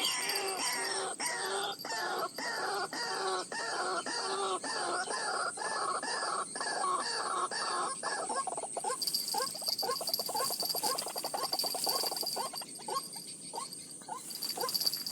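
White-breasted waterhen (ruak-ruak) calling a long series of harsh, falling notes, about two a second. About nine seconds in the series gives way to quicker, shorter, fainter notes. A steady high-pitched hum runs underneath.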